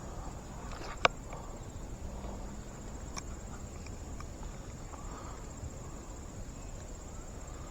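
Insects trilling steadily in a continuous high buzz over a low steady outdoor rumble, with one sharp click about a second in and a fainter click about two seconds later.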